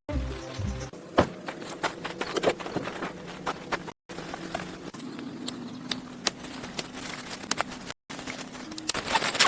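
Irregular sharp clicks and knocks in three short stretches, broken by two brief silent cuts, with music ending about a second in.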